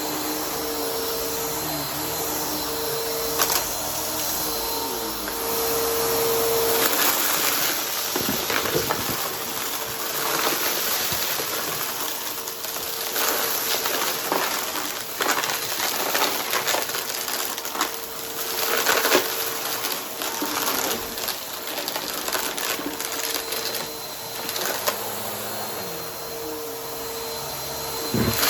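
Vacuum cleaner running with a steady motor whine, its brushroll picking up crunchy debris: irregular crackles and clicks through most of the middle.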